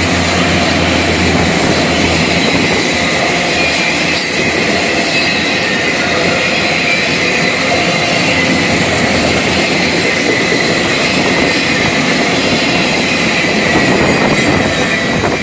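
Freight cars of a Florida East Coast Railway freight train rolling past close by: steady loud noise of steel wheels on the rails, with a faint steady high tone over it.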